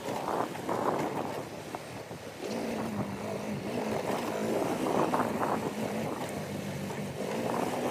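Motorcycle engine running while riding, with wind noise on the microphone; the engine note settles into a steady hum about two and a half seconds in.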